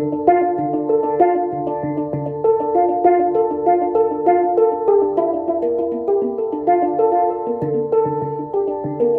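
Handpan played with the hands: a flowing run of struck, ringing notes, several a second, each note sustaining and overlapping the next.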